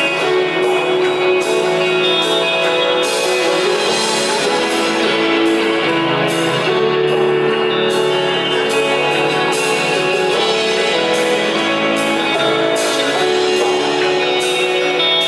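Live band playing an instrumental passage with guitar and drums, without vocals: the lead-in to the next sung verse.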